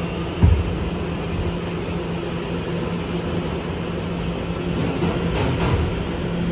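R211 subway car running at low speed, heard from inside the car: a steady hum and rumble, with a low thump just after the start and a few faint clicks about five seconds in.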